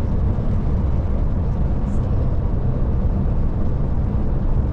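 Steady low rumble of a Scania Touring coach driving, engine and road noise heard from inside the cab.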